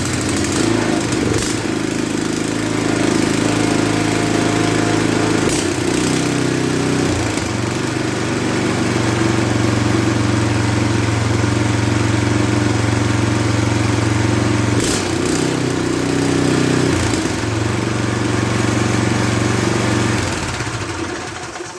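Craftsman rear-tine tiller's small single-cylinder engine running steadily on a newly fitted carburetor, its speed shifting a few times. It winds down and stops near the end.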